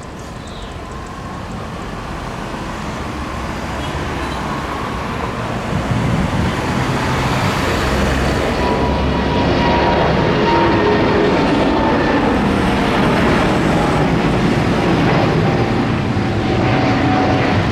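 Jet airliner taking off at full thrust, its engine roar building over the first several seconds and then holding loud. A thin engine whine slowly drops in pitch as the aircraft passes.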